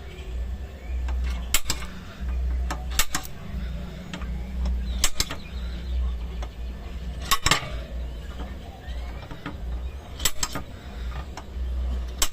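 Sharp knocks every one to three seconds, some doubled, over a low rumble that comes and goes.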